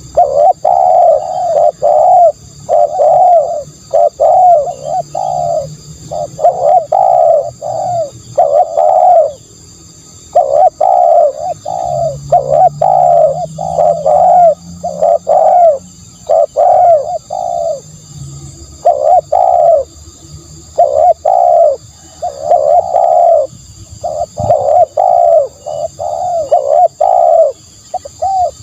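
Spotted dove cooing over and over in short phrases of several notes, with brief pauses between phrases. A faint steady high whine runs underneath.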